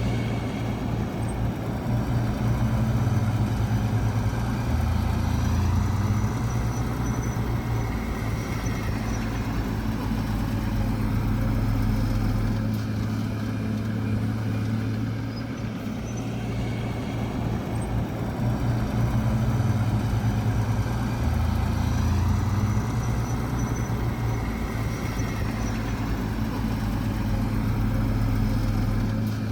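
Heavy diesel engine of earthmoving machinery running steadily, with small shifts in pitch.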